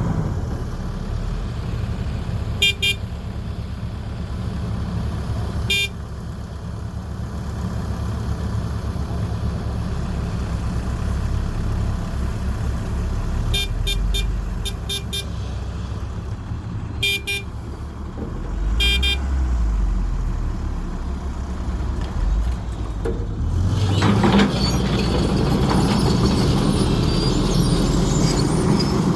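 Excavator diesel engine running steadily, with short groups of high beeps several times. About 24 seconds in, the machine noise rises and gets louder and fuller.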